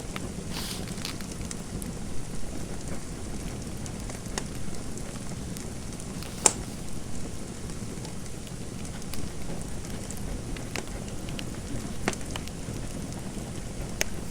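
Fire crackling in a fireplace: a steady low rumble and hiss with irregular sharp pops, the loudest about six and a half seconds in.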